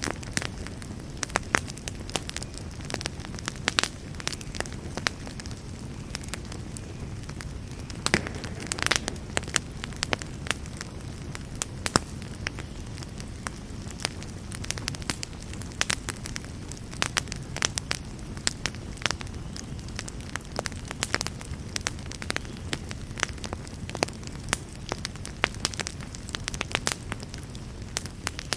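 Wood campfire burning with a steady low rush and frequent irregular sharp crackles and pops.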